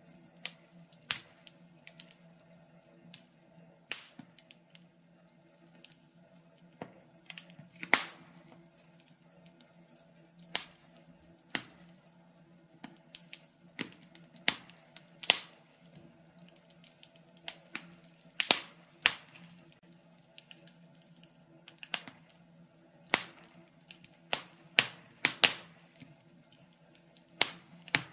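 Wood fire crackling in a fireplace: irregular sharp pops and snaps every second or so, some louder than others, over a faint steady background.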